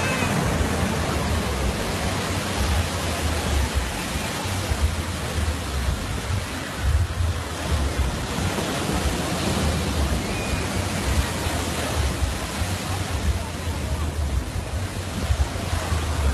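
Surf washing onto a beach, a steady hiss of waves, with wind buffeting the microphone in a gusty low rumble.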